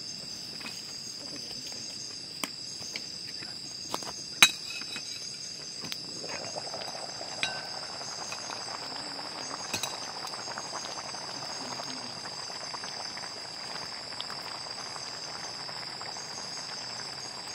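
Crickets chirring in a steady high-pitched chorus, with a few sharp metallic clinks of cooking pots and utensils, the loudest about four seconds in. A soft steady hiss joins about six seconds in.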